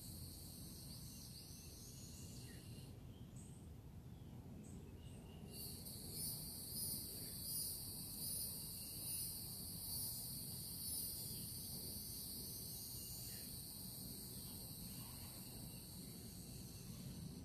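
Dawn chorus of insects, a steady high-pitched trilling that drops out for a couple of seconds about three seconds in and then resumes. Partway through, a call repeats evenly about seven times, with faint bird chirps.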